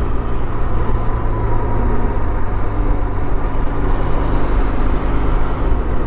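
Benelli TRK 502 motorcycle riding along, its engine and road noise a steady low rumble with no change in pace.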